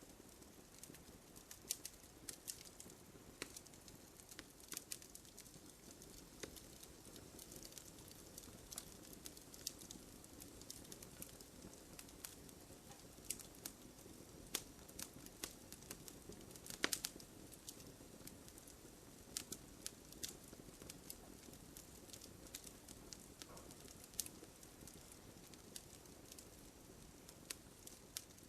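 Wood fire burning with scattered, irregular sharp crackles and pops over a soft, steady hiss. The loudest pop comes about 17 seconds in.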